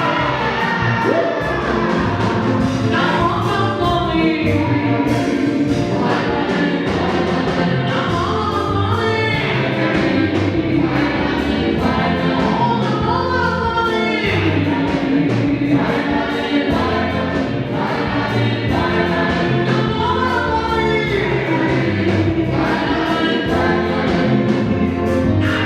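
Gospel music: a choir singing over a steady bass and beat.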